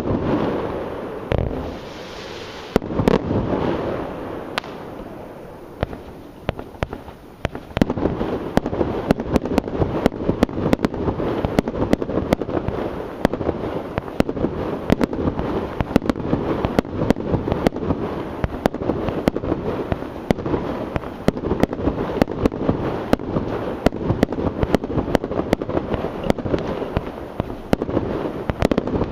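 Fireworks display: a few separate loud bangs with fading echoing tails in the first seconds, then from about eight seconds in a dense, continuous barrage of rapid cracks and bangs.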